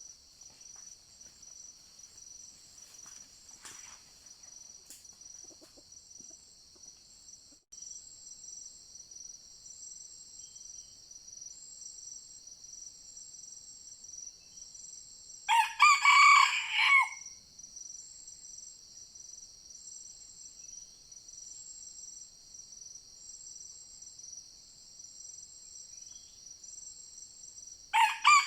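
A junglefowl rooster crows twice: a short, clipped crow about halfway through and another at the very end, the two loudest sounds. A steady, pulsing high insect drone runs underneath.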